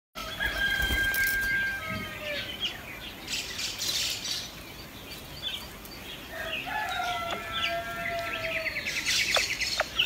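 Birds calling: sharp chirps and clicks, a long steady whistled note about a second in, a long drawn-out call about seven seconds in, and a burst of rapid chirping near the end.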